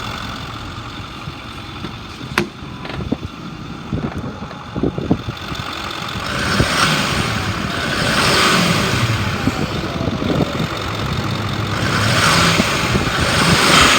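2009 Ford F-550's 6.4-litre V8 diesel idling, then revved up twice, once about halfway through and again near the end, the engine note swelling each time before settling back.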